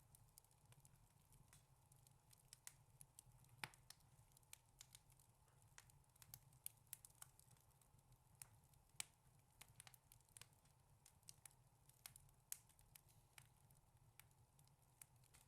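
Wood fire in a fireplace crackling: faint, irregular sharp pops and snaps, sometimes several in quick succession, over a low steady rumble.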